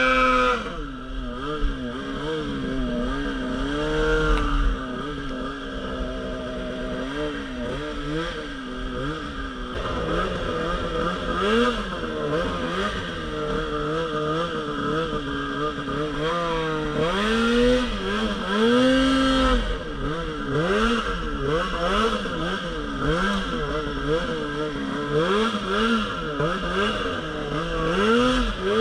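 Polaris RMK Pro 800 snowmobile's two-stroke engine being ridden, its pitch rising and falling as the throttle is worked. The revving comes in quick bursts of about one a second during the second half.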